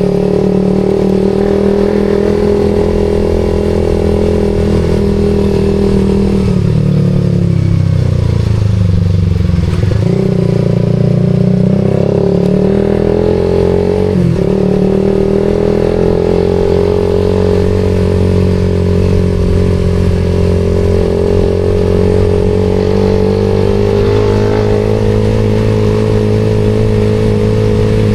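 Suzuki GSX-R150's single-cylinder four-stroke engine running through an aftermarket SARP exhaust, cruising at steady revs. About seven seconds in, the engine note falls as the bike slows, then climbs again as it picks up speed, and settles back to a steady run.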